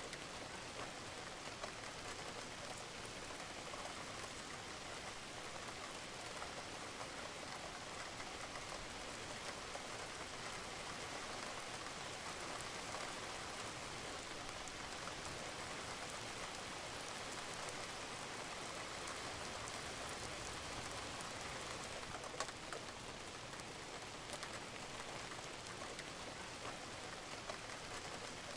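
Steady rain falling on a roof, an even hiss with a few separate drops ticking through it, one a little louder about twenty-two seconds in.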